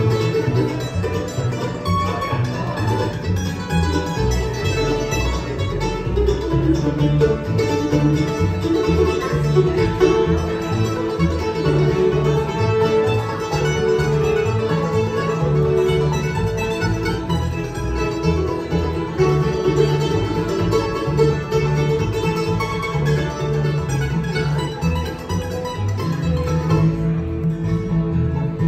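Bluegrass band playing, with picked banjo among the plucked string instruments over a steady low rhythm.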